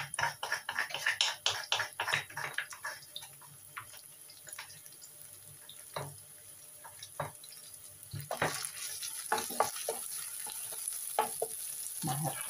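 Bird chilies, dried chilies and garlic frying in oil in a nonstick pan: dense crackling pops at first, thinning out mid-way, then a steadier, louder sizzle from about eight seconds in as the mixture is stirred and spread across the pan.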